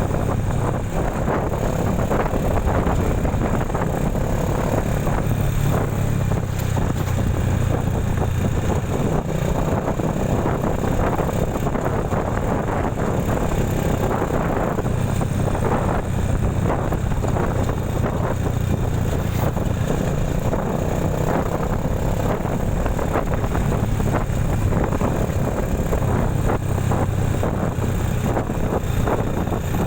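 A vehicle's engine running steadily while travelling on the road, with a constant low hum and road noise.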